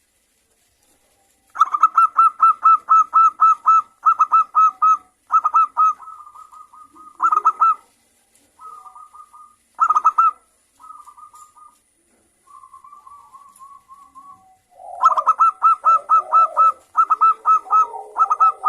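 Zebra doves (perkutut) calling back and forth: bursts of rapid, evenly repeated staccato notes, several a second, starting about a second and a half in. Softer, fainter bursts come through the middle, and a loud run returns near the end with lower cooing under it.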